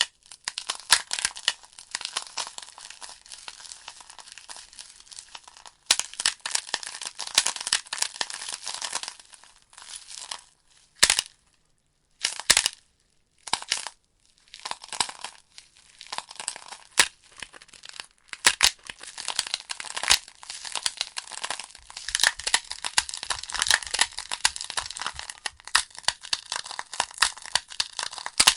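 Burning logs in a fireplace crackling and popping, a dense run of fine snaps and sharper pops. About twelve seconds in the crackling falls away for a couple of seconds, leaving only a few single pops, then picks up again.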